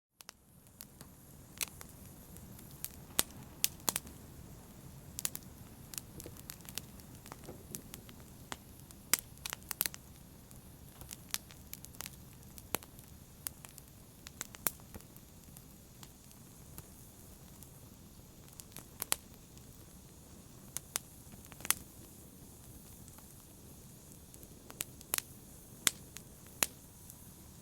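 Wood fire in a fireplace crackling: irregular sharp pops and snaps, a few louder than the rest, over the low steady rush of the flames.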